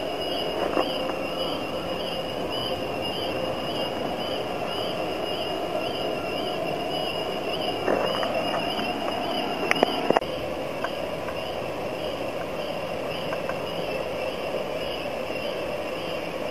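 Mechanical brush washer for passenger coaches running as a train is pushed slowly through it: a steady wash of brush and spray noise with a high whine that wavers rapidly and evenly. A few sharp knocks come around the middle.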